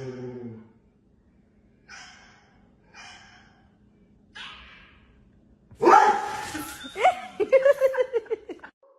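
A pet animal vocalising: a low call, then three short breathy bursts about a second apart, then a loud sudden burst followed by a quick run of pitched calls.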